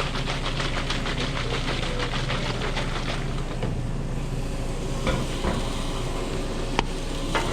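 A utensil working quickly in a hot pan, about six even strokes a second for the first three seconds, over a steady low kitchen hum. A few sharp clinks follow in the second half.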